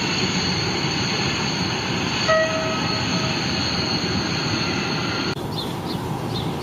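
Electric trains running past on the tracks: a steady rolling rumble with a high whine over it. A short horn note sounds about two seconds in. The sound changes abruptly near the end to a duller roll with faint rail clicks.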